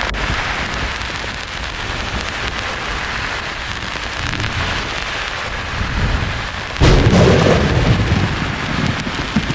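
Steady rain-like hiss, broken about seven seconds in by a sudden loud thunderclap that rolls on as a low rumble.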